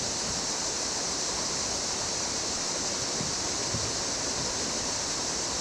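Steady rushing of a fast river current running over rocks, with a couple of faint low bumps a little past the middle.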